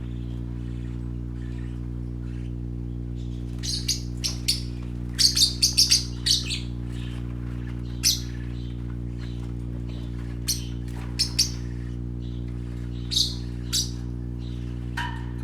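Young pet parakeets chirping: short, sharp, high chirps in scattered bursts, busiest about five seconds in, over a steady low hum.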